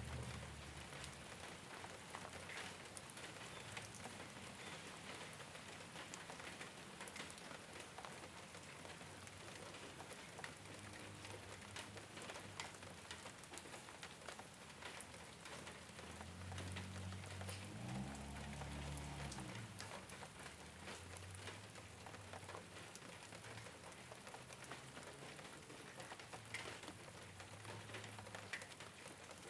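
Rain falling on a rooftop: a steady patter with many separate drop taps throughout, and a low rumble about two-thirds of the way in.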